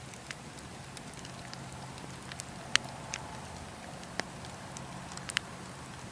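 Wood fire crackling: scattered sharp pops and snaps, the loudest a little before halfway, over a steady low hum and faint hiss.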